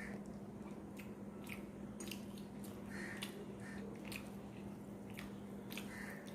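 Close-miked chewing and mouth sounds of a person eating rice and curry: short wet smacks and clicks repeating irregularly, over a steady low hum.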